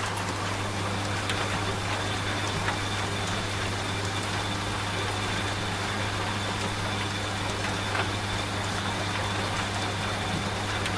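Washing machine running with a steady low hum, mixed with steady rain and scattered drop sounds.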